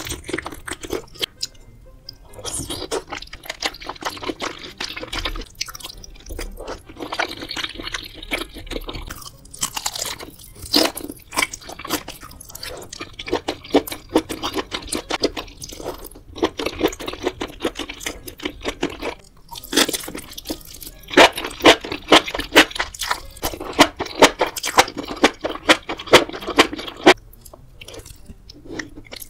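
Close-miked ASMR eating: a person biting and chewing mouthfuls of spicy seafood hot pot, including octopus tentacles, with many quick wet mouth clicks and smacks. There are brief pauses between bites, one shortly after the middle and one near the end.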